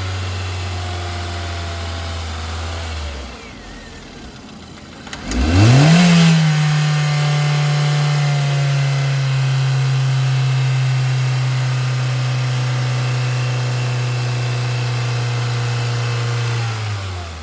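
2015 Kia Soul 1.6-litre four-cylinder engine idling, shut off about three seconds in, then restarted about five seconds in with a quick flare of revs that settles into a steady fast idle, easing slightly, until it is shut off again near the end.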